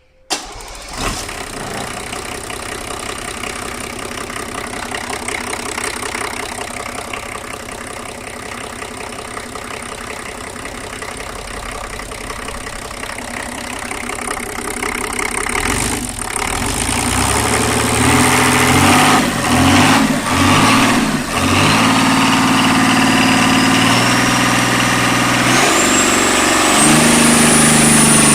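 Nissan SD33T6 3.3-litre turbocharged straight-six marine diesel firing up and settling into a steady idle, then revved up and down repeatedly over the last ten seconds, with a high whine climbing in pitch as the revs build near the end.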